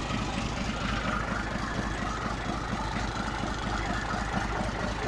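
Scania 112 truck's diesel engine idling steadily with an even low pulse.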